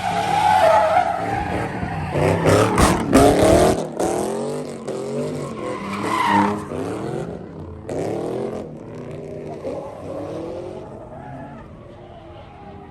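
Car engine revving up and down hard with tyres screeching as a car drifts, loudest a few seconds in, then fading away in the second half.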